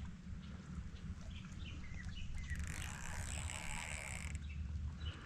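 Wind buffeting the microphone in a steady low rumble, with a few faint short chirps and a brief high hiss in the middle.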